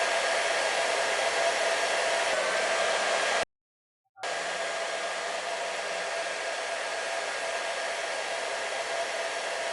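Heat gun blowing hot air steadily while warming vinyl adhesive wrap, a steady hiss with a faint whine in it. It drops out completely for under a second about three and a half seconds in, then runs on.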